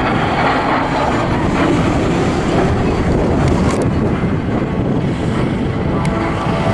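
Loud, steady engine noise of display aircraft flying overhead, including a pair of de Havilland Vampire jets in a mock dogfight.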